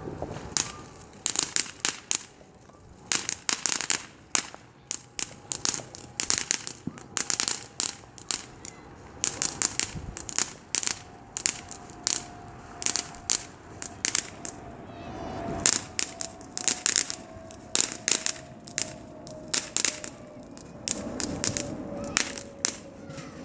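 A lit consumer firework going off: a long run of sharp cracks and pops in irregular bursts, several a second.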